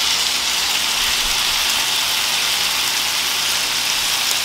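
Steady sizzling of diced potato, onion and garlic frying in hot oil in a wok as canned corned beef is tipped in.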